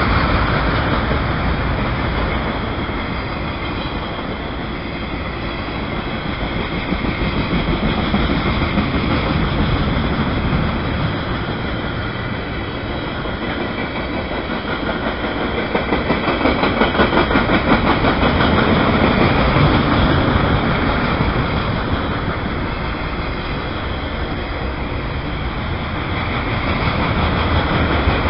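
Freight train's loaded flatcars rolling past at close range: a steady rolling rumble and wheel noise on the rails that swells and eases every several seconds.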